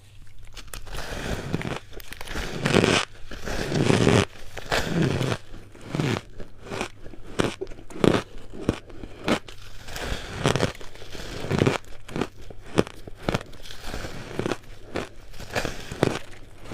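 Purple ice being bitten and chewed: a dense run of crunching and crackling, with heavier bites about three and four seconds in, then a steady series of sharp crunches as the ice is chewed.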